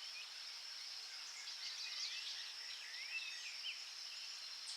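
Goldfinch twittering: a run of quick chirps and short sweeping notes over a steady high-pitched background hiss.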